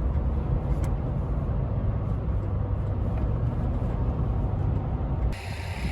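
Steady low road and engine rumble of a vehicle driving at highway speed, heard from inside the cab. Near the end it cuts abruptly to a different, brighter outdoor background.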